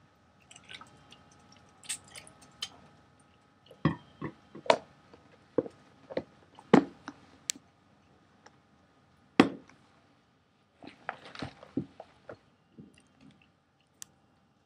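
Biscuit being chewed close to the microphone: a run of irregular sharp crunches and clicks, thickest a few seconds in, then a short cluster later on.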